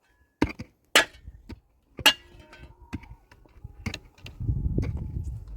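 A series of sharp knocks at uneven intervals, the loudest in the first two seconds, with a low rumble in the last second and a half.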